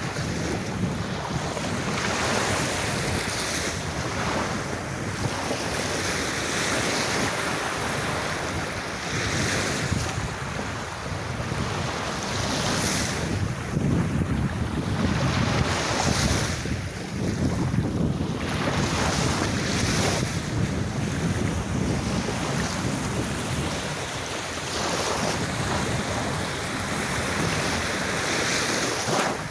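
Sea waves washing onto a beach, swelling and falling back every few seconds, with wind buffeting the microphone.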